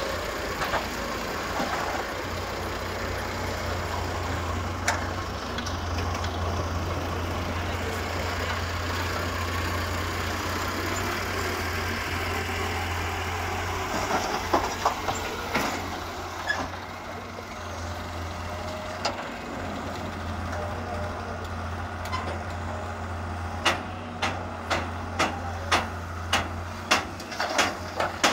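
Excavator's diesel engine running steadily, with scattered clanks and knocks about halfway through and a quick series of sharp knocks near the end.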